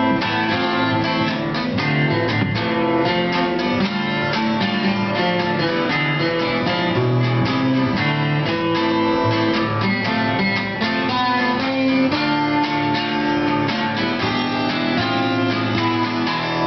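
Acoustic guitar strumming chords in an instrumental break between sung verses of a song, at an even, steady rhythm.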